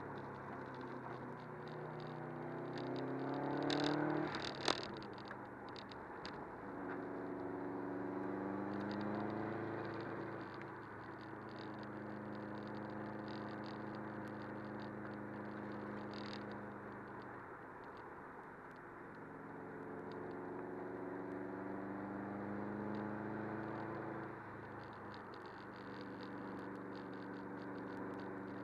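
Subaru WRX's turbocharged flat-four engine heard from inside the cabin, its revs climbing and falling as it drives. The pitch rises steeply for the first four seconds, drops just after a sharp click, holds steady in the middle, and rises and falls again near the end.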